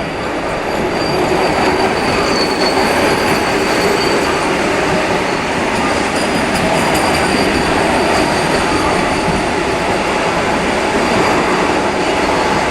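Vande Bharat Express electric multiple-unit trainset running through at speed: a loud, steady rush of wheels on rail with a faint high-pitched squeal. It builds over the first second and then holds.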